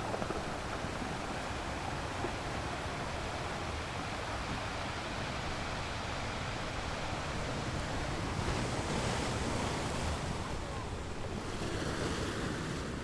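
Ocean waves breaking and washing on the shore in a continuous rushing surf, swelling in a couple of places as waves come in.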